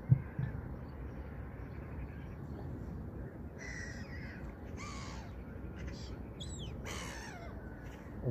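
Several short, harsh, caw-like bird calls from birds flying over the water, scattered through the middle of the stretch, over a steady low background noise. A brief thump comes right at the start.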